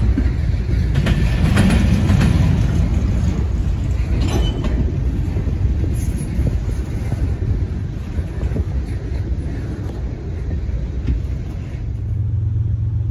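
Covered hopper cars of a freight train rolling past, a dense low rumble with the wheels clicking over the rail joints a few times. The rumble thins as the last car goes by, and near the end a steady low hum takes over.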